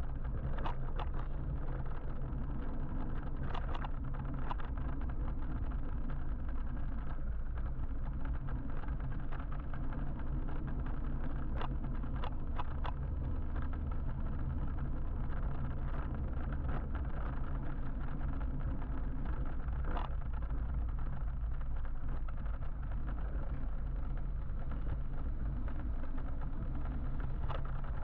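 Steady road and traffic noise heard from a moving electric motorbike: a low, even rumble and hum, with a few scattered sharp clicks.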